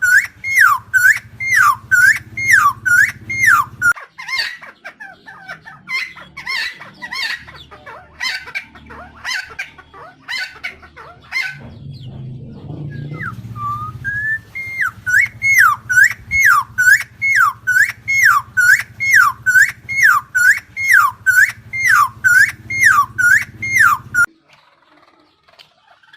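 Helmeted friarbird calling, one loud swooping note repeated about twice a second. The run breaks in the middle into more varied calls, then resumes and cuts off abruptly a couple of seconds before the end.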